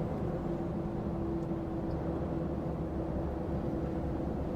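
Lorry's diesel engine running steadily, heard from inside the cab as a constant low rumble with a faint steady hum.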